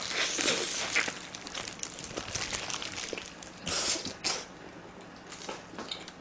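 Close-miked chewing of a bite of cheese fry pizza: soft wet mouth sounds and small clicks, with a brief louder noisy stretch about four seconds in.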